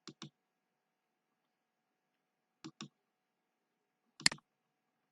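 Sharp clicks in a quiet room: a quick pair near the start, another pair about two and a half seconds later, then one louder single click near the end.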